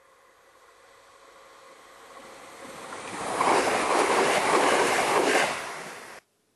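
A train approaching and passing at speed: a rush of wheel and air noise that builds over about three seconds, stays loud for about two seconds, then cuts off suddenly.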